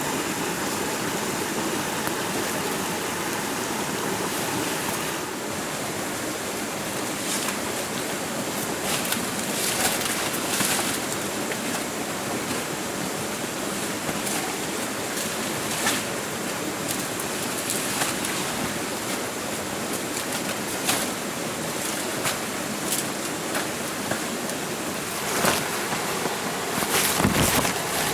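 A steady rushing noise with a few scattered short clicks and knocks.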